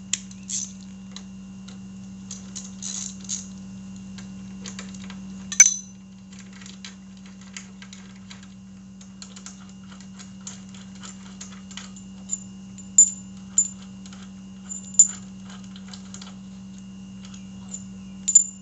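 Irregular metal clicks and clinks of hand tools working the bolts on a motorcycle's front brake caliper, with one sharp clink about five and a half seconds in and a few more near the end, over a steady low hum.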